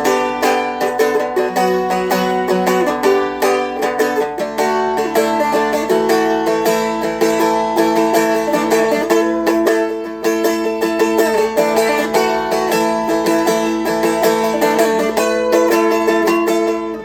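Seagull Merlin M4, a four-string fretted strumstick, strummed quickly and continuously, with a steady drone note ringing under changing melody notes.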